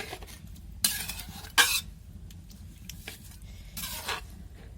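A spoon scraping and knocking against a cooking pot while stirring chicken curry: three separate strokes, the loudest a sharp knock about one and a half seconds in.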